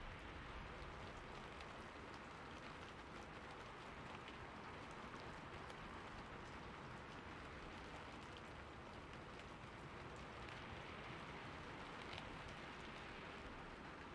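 Steady rain falling: an even, fairly soft hiss with scattered faint ticks of individual drops.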